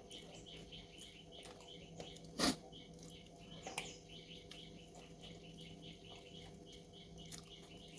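Steady, rapid high chirping, several short chirps a second, keeps up throughout. One short loud noise comes about two and a half seconds in, and a fainter one about a second later.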